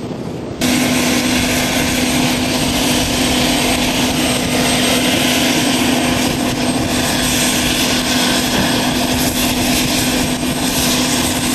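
UH-60 Black Hawk helicopter's turboshaft engines running loud and steady during startup, a steady turbine whine over dense engine noise. It comes in suddenly louder about half a second in.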